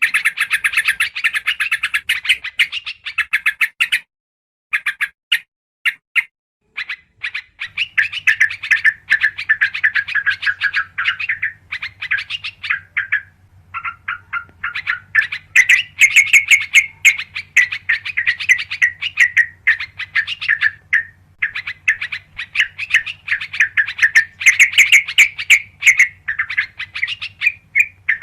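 Yellow-vented bulbuls (trucukan) calling in dense, rapid chattering runs of short chirps, with brief pauses between phrases, as played on a bird-lure recording.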